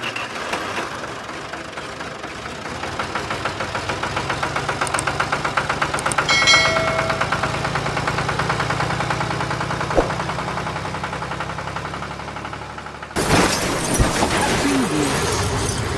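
Tractor engine running with a fast, even chug over a low hum, with a short horn-like tone about six seconds in. About thirteen seconds in it breaks off and a louder, clattering sound takes over.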